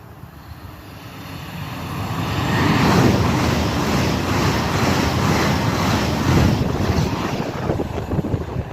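A train passing through the station: its noise swells over about two seconds, stays loud with a rapid clatter, then begins to fade near the end.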